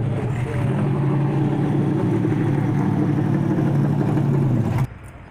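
A car engine running close by with a steady, deep, low-pitched note. It cuts off abruptly near the end.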